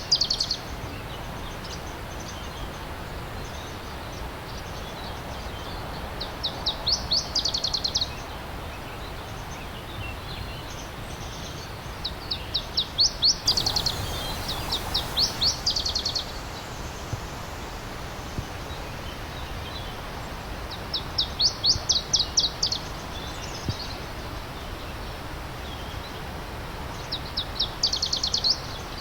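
A songbird singing short, fast trills of high repeated notes, about every five to six seconds, over the steady rushing of a stream.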